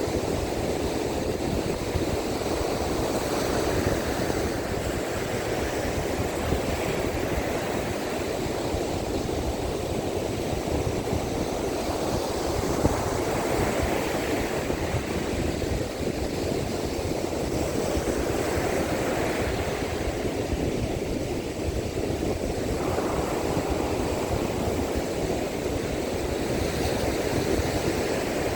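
Strong onshore wind and heavy surf on a sandy beach: a steady rushing noise of breaking waves, with wind buffeting the microphone as a low, flickering rumble.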